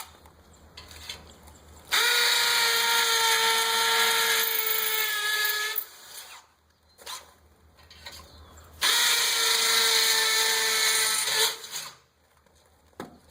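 Cordless hammer drill with a 1/4-inch bit boring two pilot holes into a concrete block column, each run lasting three to four seconds with a steady motor whine. The runs start about two seconds in and about nine seconds in, with a pause between them.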